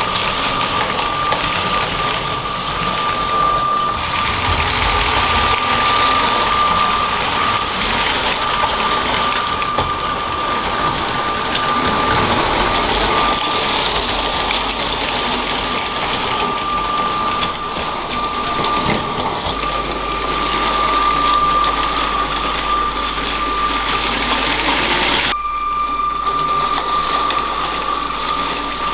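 LEGO train running on plastic track: a steady motor whine over a continuous rattle of wheels, with faint clicks.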